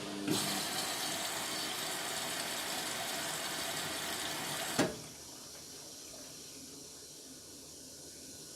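Indesit MTWC71252WUK washing machine taking in water: a loud, even hiss of water rushing in through the inlet valve for about four and a half seconds, which cuts off with a sharp click. A fainter hiss remains, and a low hum stops just as the filling starts.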